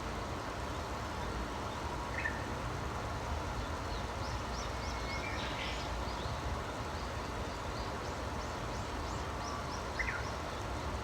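Small birds chirping faintly: a run of quick high chirps in the middle and single calls about two seconds in and near the end, over a steady low rumble.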